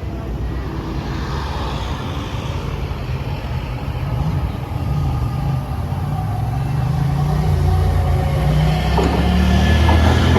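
Long Island Rail Road train approaching, getting steadily louder, with a low drone that rises slightly in pitch toward the end.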